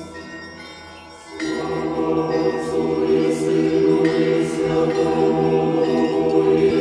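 Orthodox church bells ringing, with clear strikes. About a second and a half in, a choir of voices starts singing a chant under them.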